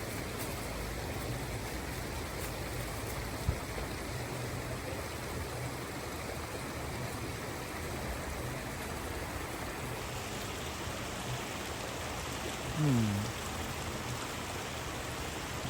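River water running steadily. About thirteen seconds in, a short sound slides downward in pitch, and there is a single click earlier on.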